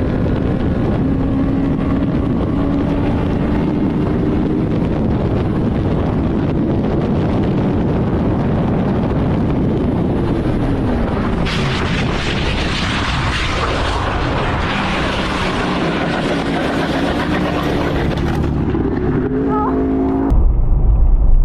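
Car on the road recorded by a dashcam: steady engine and road noise, with a falling engine tone about ten seconds in and a hissier stretch after it. Near the end it cuts to a different, muffled recording dominated by a low rumble.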